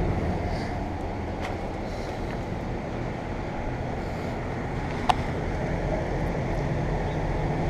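Steady low hum of outdoor air conditioner units running, with a single faint click about five seconds in.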